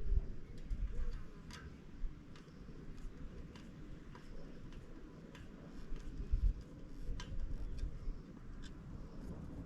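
Irregular sharp clicks and light taps, roughly one or two a second, over a low rumble: small metal parts and tools being handled while a bird guard is fitted to a chimney pot.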